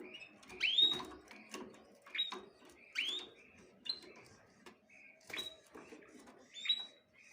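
Small birds chirping, about six quick upswept chirps roughly a second apart, mixed with short sharp clicks.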